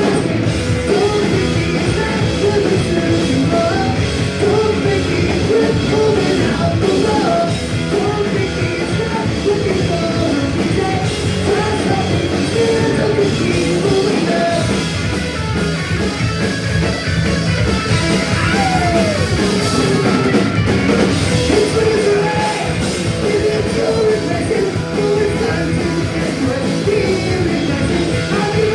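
Punk rock band playing live through a club PA, with loud distorted guitars, bass and drums and a singer's voice over them.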